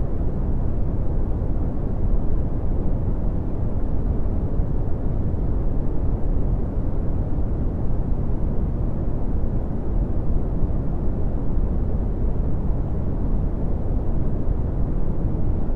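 Red (Brownian) noise: a steady, deep rushing hiss, strongest in the bass and dropping off sharply toward the treble, with nothing standing out.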